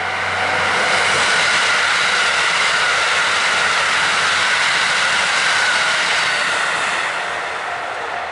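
Electric train passing close by, its rolling noise swelling, holding for several seconds with a steady whine over it, and fading near the end. A level-crossing warning bell rings at the start and again as the train noise dies away.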